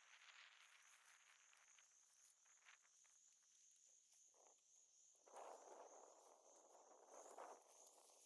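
Faint outdoor ambience: insects, crickets or similar, trilling steadily at a high pitch. A few soft rustles stand out about four and five seconds in, the longest lasting under a second.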